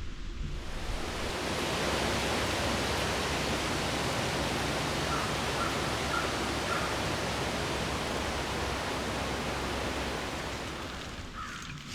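Strong gust of wind, a steady rushing hiss that builds about a second in and eases off near the end.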